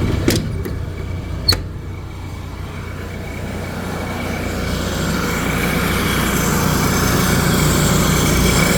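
A service truck's engine running steadily. Two sharp clicks come in the first second and a half, then a hissing noise swells louder from about four seconds in.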